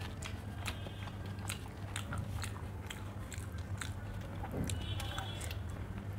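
Close-miked eating sounds: chewing and wet, irregular mouth clicks as soft handmade roti with egg curry is eaten by hand, over a steady low hum.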